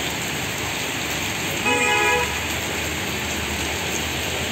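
Heavy rain pouring steadily on a street with traffic passing, and a vehicle horn honking once for about half a second, around two seconds in.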